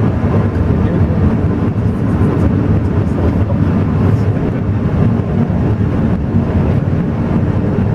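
Alishan Forest Railway train running: a steady low rumble.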